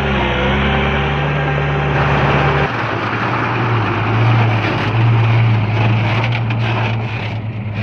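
Heavy diesel engine of earthmoving machinery running steadily; about two and a half seconds in its note changes abruptly to a lower, noisier drone, with some short rattles near the end.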